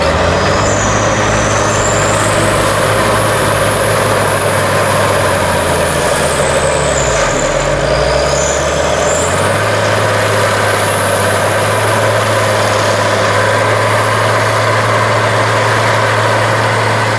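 Large tracked tractor's diesel engine working under heavy load while pulling a deep subsoiler: a steady, loud drone with a high whine over it. The engine note dips and shifts briefly about seven to nine seconds in, then settles again.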